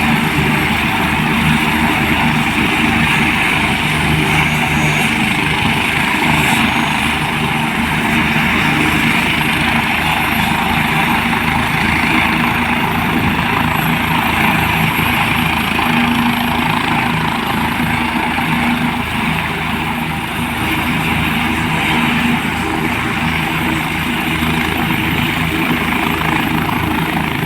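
Helicopter running on the ground with its rotor turning, a steady loud whine and a rapid, even blade beat, ready to lift off.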